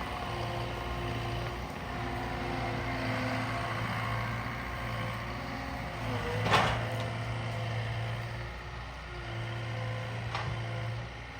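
Cat 299D2 skid steer's diesel engine running steadily, with one sharp clank about two-thirds of the way through and a lighter click near the end.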